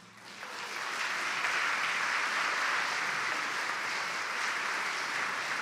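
Audience applauding after a concert band finishes a piece, building over the first second and then steady.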